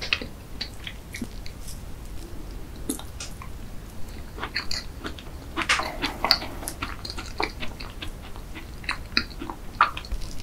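Close-miked chewing of a soft blueberry cheese tart: wet mouth sounds broken by many small, irregular clicks, busiest about halfway through. Near the end a metal fork cuts into the tart.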